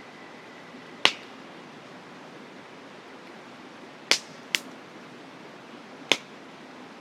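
Campfire burning, its wood popping sharply four times over a steady rushing hiss.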